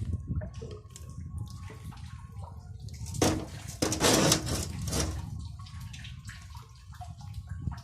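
Water splashing and running over a steady low rumble, with two louder rushes of water about three and four seconds in.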